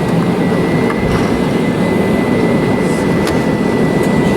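Airbus A320 jet engines at takeoff thrust heard from inside the cabin: a steady loud rumble with a thin, steady high whine and a few light rattles.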